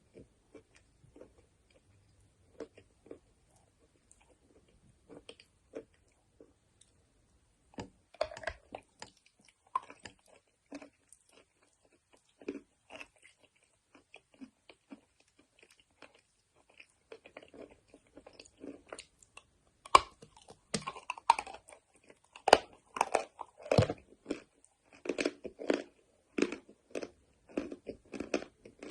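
A person biting and chewing chalk and wet clay, with crisp crunches. They are sparse and soft at first, then come thick and louder over the last third.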